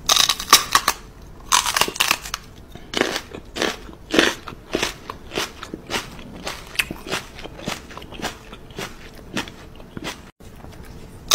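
Crunching and chewing of crisp food in a person's mouth, a run of sharp crunches that is loudest in the first second, with further bursts of bites and smaller crunches after.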